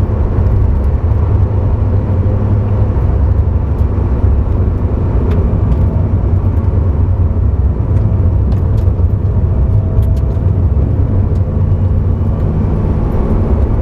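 Porsche sports car driven at speed on a race track: engine and road noise heard from inside the cabin as a steady low drone.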